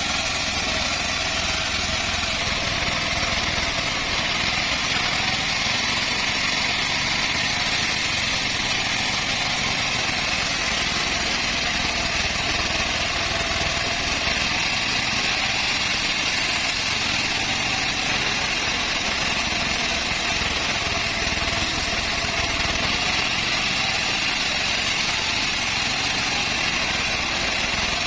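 Sawmill band saw (gergaji selendang) running steadily, a constant machine drone with a steady high whine and no pauses.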